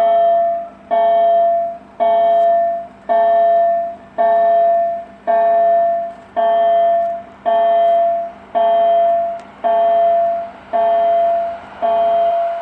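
Railway level crossing warning bell ringing at about one stroke a second, each a clear single-pitched ding that rings down before the next. Near the end the noise of an approaching train begins to rise beneath it.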